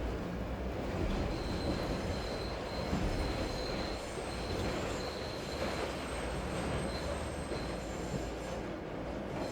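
A train running past with a thin, steady high-pitched squeal of its wheels on the rails for several seconds, over a continuous low rumble and hiss.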